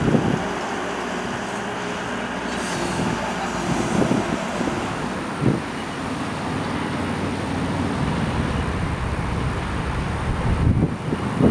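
Steady vehicle and traffic noise, a low rumble with a few brief louder swells.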